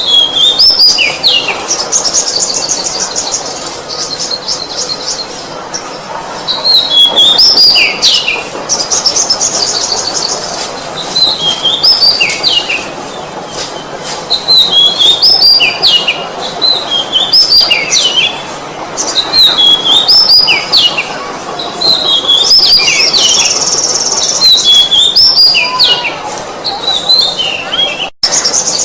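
Oriental magpie-robin (kacer) singing: repeated short phrases of falling, stepped whistles every second or two, broken by several fast, high trills, over a steady background hiss. The sound cuts out for an instant near the end.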